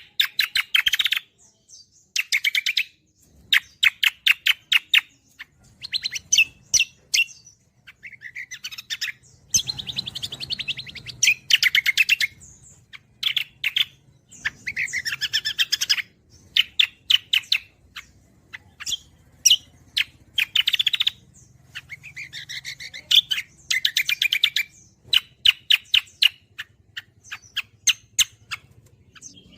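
Cucak kombo songbird singing in rapid, chattering phrases of about a second each, with short pauses between, as used to train other cage birds to sing. A faint low hum sits underneath from about six seconds in.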